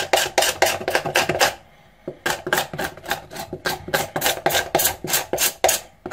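A knife blade scraping along lamb rib bones in short, quick strokes, about four or five a second, with a short pause about two seconds in. It is shaving the thin meat and membrane off the ribs.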